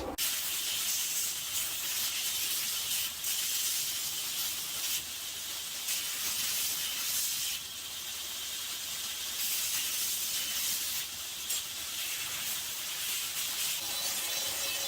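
Grinder grinding the surfaces of steel bar stock, a steady hiss that swells and eases as the metal is pressed to the abrasive, taking off scale and impurities where the pieces will be forge welded.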